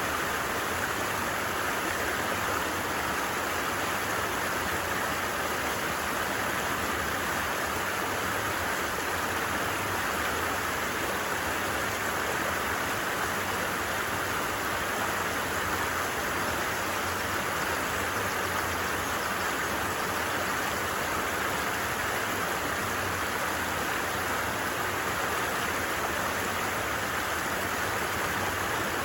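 Creek water flowing steadily: an even, unbroken rushing of water.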